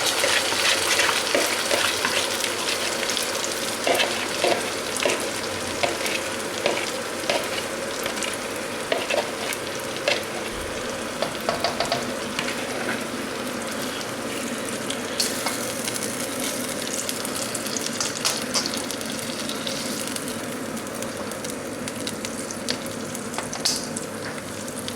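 Chicken pieces in a yoghurt marinade frying in oil and butter in a wok, sizzling steadily, with scattered clicks and scrapes of stirring.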